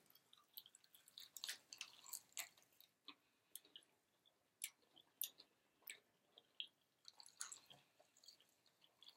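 Faint close-up chewing and biting of fried chicken wings: scattered small crunches and wet mouth sounds, a few each second, irregular.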